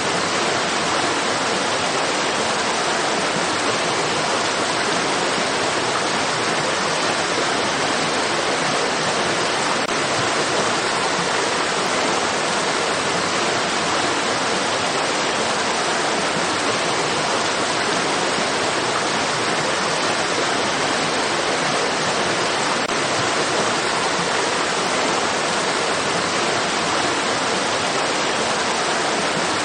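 Flowing stream water rushing steadily, an even hiss with no separate splashes or changes.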